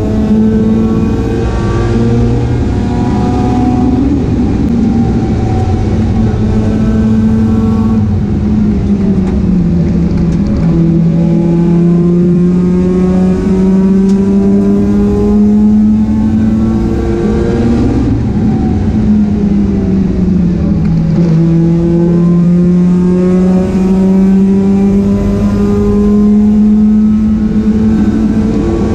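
Mazda RX-8's rotary engine pulling hard on track. Its note climbs slowly and steadily, drops back twice (about a third and two-thirds of the way through), then climbs again.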